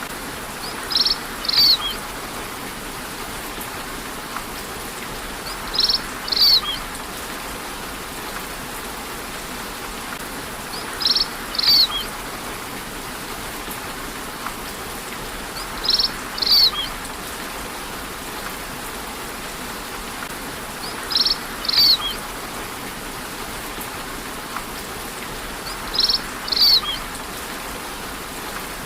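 Steady rainfall with a bird's short, high two-note call repeating at even intervals of about five seconds, six times, louder than the rain.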